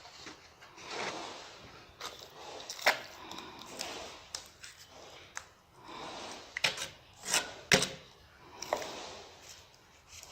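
Tile-laying work: hand tools scraping on mortar and tile, with several sharp knocks and taps at irregular intervals.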